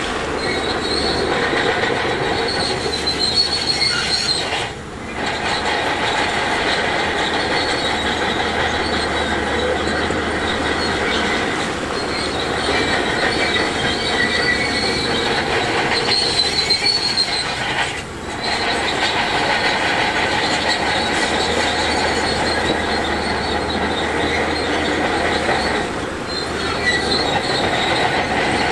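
Heavy earthmoving machinery running, with a continuous high metallic squeal and clatter over a low engine hum; the sound dips briefly twice.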